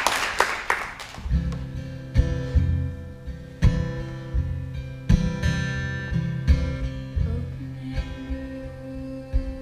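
Applause dies away in the first second, then an acoustic guitar starts a slow song intro, strumming chords about every second and a half. A held organ chord sounds underneath.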